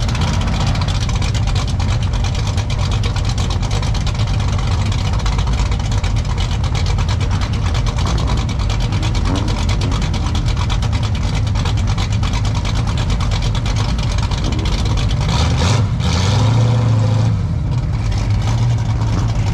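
Car engines running with a steady low rumble, one growing louder for a moment about 16 seconds in, with voices faintly mixed in.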